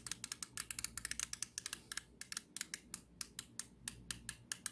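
A refrigerator's mechanical defrost timer being turned by hand, its gear mechanism clicking rapidly and irregularly, several clicks a second, as it is advanced from cooling toward the defrost position.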